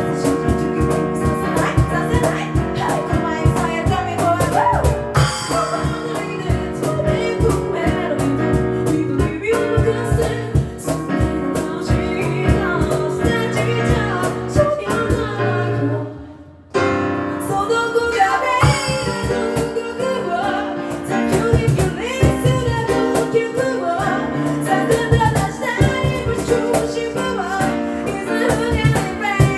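An a cappella group singing a pop medley: a female lead over harmonising backing voices, with a steady beat in sharp strokes. The music drops out for a moment about halfway through, then starts again.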